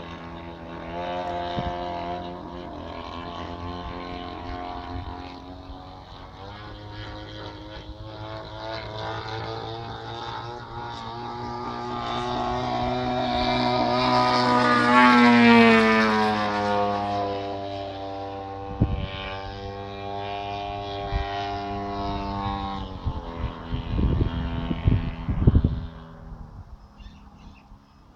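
Engine of a large radio-controlled model airplane in flight, a steady pitched drone that grows louder as it approaches, drops in pitch as it passes about halfway through, then fades. A few low thumps come near the end.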